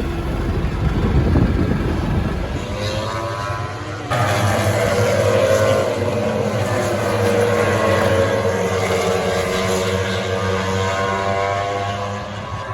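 A low vehicle rumble for about four seconds, then suddenly the high-revving engines of MotoGP racing motorcycles heard from a distance, their pitch slowly falling.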